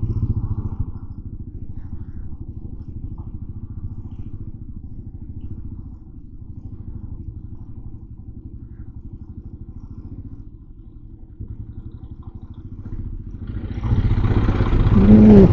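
Motorcycle engine running at low road speed, a steady low rumble with rapid even pulsing, heard from the rider's own bike. Near the end the sound grows louder and fuller with added traffic noise.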